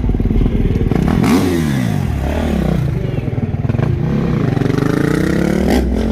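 Freestyle motocross dirt bike engines revving. The pitch climbs sharply about a second in, then falls away, and climbs again near the end.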